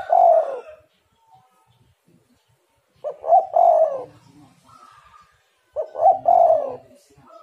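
Spotted dove (tekukur) cooing: a call fading out near the start, then two more phrases about three seconds apart. Each phrase is a short note followed by a longer, lower coo.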